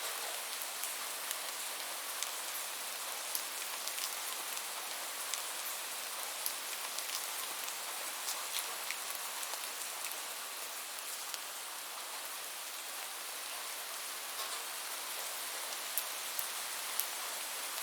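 Steady rain: an even hiss of rainfall with many small, scattered drop ticks on a hard surface.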